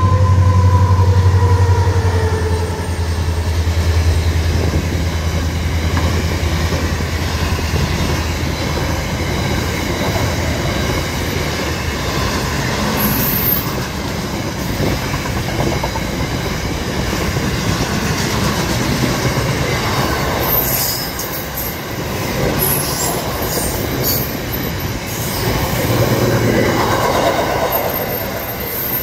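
Aurizon grain train passing close by: the diesel locomotive drones past in the first few seconds, a whine dropping in pitch as it goes by, then grain hopper wagons roll past with steady wheel rumble and clatter over the rails. Brief high wheel squeals come through around the middle and near the end.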